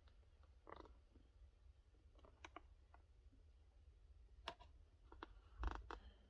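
Near silence, with a few faint clicks and light crackles of a blister-card toy-car package being handled.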